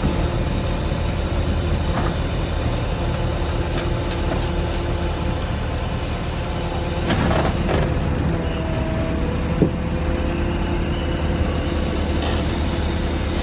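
Heavy diesel equipment engine running steadily, with two short hisses and one sharp clank.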